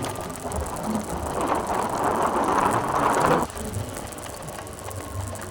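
Motorbike riding noise: a noisy rush that builds over about two seconds and cuts off abruptly about three and a half seconds in.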